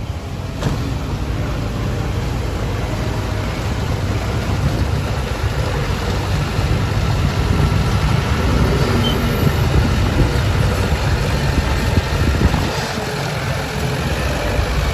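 Heavy diesel engine of earthmoving machinery running steadily as a low rumble that grows gradually louder.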